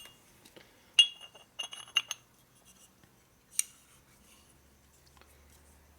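Small steel parts, piston wrist-pin clips, clinking against each other and a hard surface with a short metallic ring. The loudest clink comes about a second in, a quick cluster follows around two seconds, and one more comes a little after the middle.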